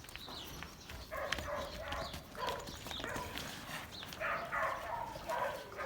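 An animal calling repeatedly in short, pitched bursts.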